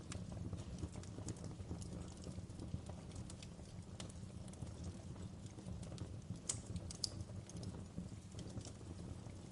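Wood fire burning in a fireplace: a steady low rumble of flames with irregular sharp crackles and pops, two louder pops about six and a half and seven seconds in.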